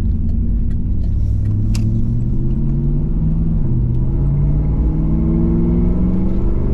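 1998 Pontiac Firebird Formula WS6's LS1 V8, with a muffler-delete single exhaust, accelerating hard, its pitch climbing. About three and a half seconds in the automatic transmission upshifts, the pitch drops, and it climbs again through the next gear.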